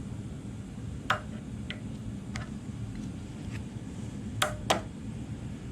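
Light metal clicks and clinks from U-joint parts and hand tools being handled on a drive shaft: a handful of single ticks, then two sharper ringing clinks close together about four and a half seconds in, over a steady low hum.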